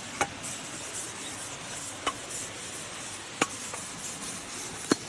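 Steady wind noise rushing over the microphone, with four sharp clicks spaced one to two seconds apart.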